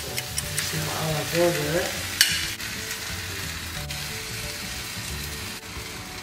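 Beef burger patties sizzling as they fry in oil in a frying pan, a steady crackling hiss, with one sharp click about two seconds in.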